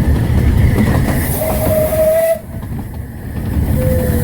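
Narrow-gauge steam train running: a loud low rumble of the train on the track, with a steady whistle-like tone held for about a second. Midway the sound drops suddenly, then the rumble builds back with a second short tone near the end.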